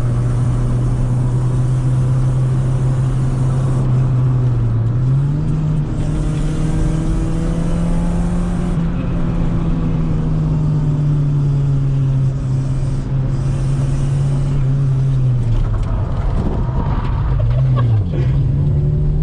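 A 1995 Honda Civic's four-cylinder engine and rusted-through original exhaust give a loud, steady drone. The pitch rises smoothly about five seconds in and holds. It falls back a few seconds before the end, dips briefly and climbs again, as when driving through changes of engine speed.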